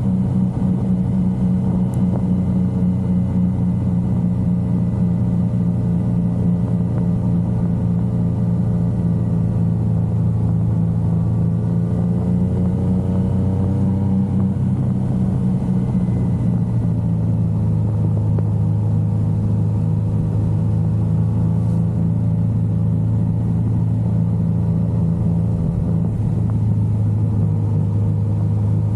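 Yamaha XSR900's inline-three engine running steadily at cruising speed, its note rising a little about halfway through and then settling again.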